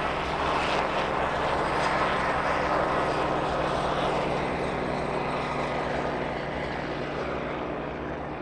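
Light propeller aircraft engine droning steadily in flight, slowly fading toward the end.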